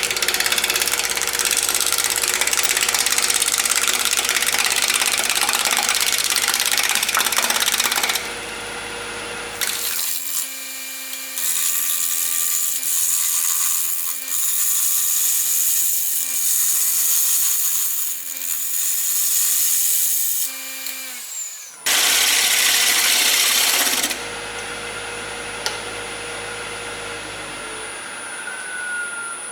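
Woodworking power tool cutting a cedar blank, with long stretches of loud cutting noise. About 21 seconds in the motor winds down and stops, followed by a second short burst of loud cutting.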